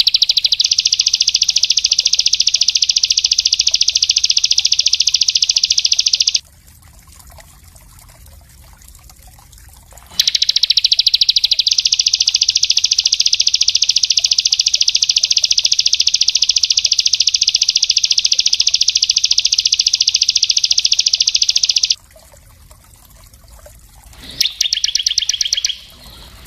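Small songbird singing a rapid, dense, high-pitched trill of fast repeated notes, the 'speed rapat' song of a masteran recording used to tutor caged songbirds. It comes in long unbroken bouts: about seven seconds, a pause of about four seconds, about twelve seconds, then a short burst near the end.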